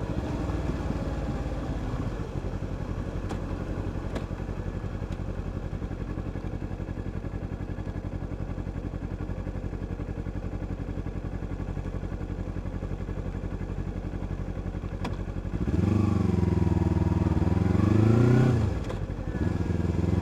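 Vehicle engine running steadily on the move with a fast, even pulsing. About three-quarters of the way in, a louder engine comes in for nearly three seconds, its pitch rising and falling as it revs, then drops away.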